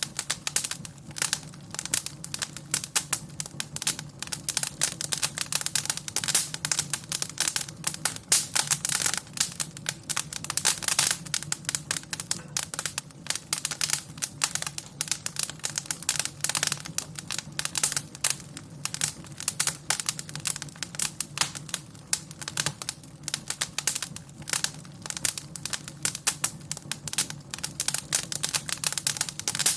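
Wood fire in a fireplace crackling and popping, dense irregular snaps over a low steady hum.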